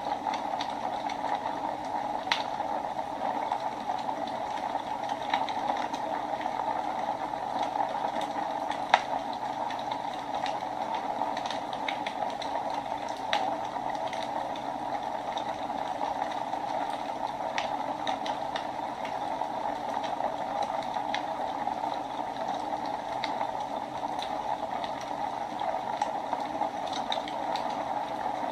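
Wood fire burning in a fireplace: a steady hiss of the flames with irregular crackles and pops from the burning wood, one sharper pop about nine seconds in.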